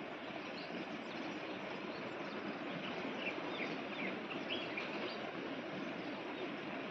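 Steady outdoor background noise with a few short, high bird chirps clustered a little past the middle.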